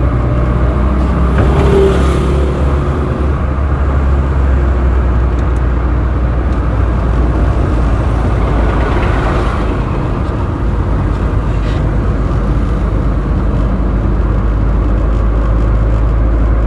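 Road traffic with a steady, loud low rumble of engine and tyre noise, most likely heard from inside a moving vehicle. Noise swells about two seconds in and again near nine seconds, as other vehicles pass, and a brief steady tone sounds about two seconds in.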